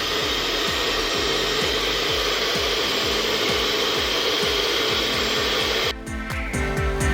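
Handheld blow dryer blowing steadily, cutting off suddenly about six seconds in, over background music with a steady beat.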